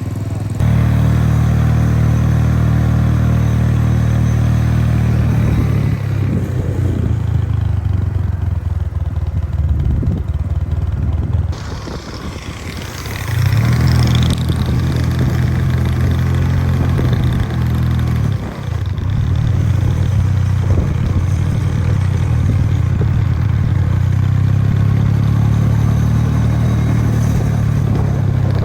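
A motor vehicle's engine running with a low, steady drone, dropping off briefly twice and picking up again.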